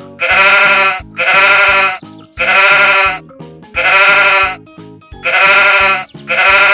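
A sheep bleating six times in a row, each bleat under a second long with a wavering, quavering pitch, about one every second and a quarter. Light children's background music with plucked notes plays underneath.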